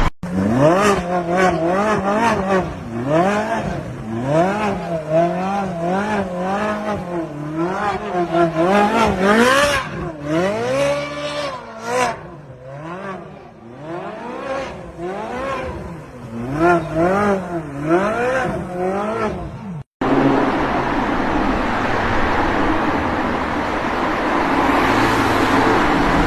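Sports car engine revved over and over, its pitch climbing and dropping about once a second. After a sudden cut near the end, a car is heard driving with a steadier engine note under a lot of road or tyre noise.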